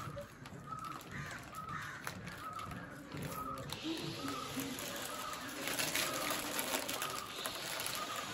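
A bird calling over and over, a short high call repeating about every two-thirds of a second. From about halfway, crinkling of plastic chip packets and the crunch of potato chips being eaten join in.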